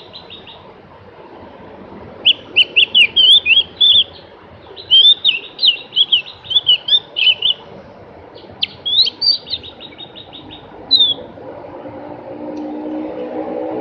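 Javan grey-throated white-eye (opior jawa) singing three fast, twittering high-pitched phrases, some ending in a quick rattle, with a short single note a little later.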